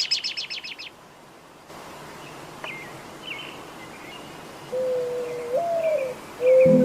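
Birds calling over outdoor background hiss. A quick run of about eight sharp high notes opens, then scattered faint chirps follow. From about two-thirds of the way in, a louder low held tone rises in one step and falls back, and music comes in at the very end.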